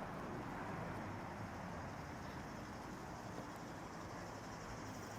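Steady low rushing noise of riding a bicycle along a trail, with no distinct knocks or calls.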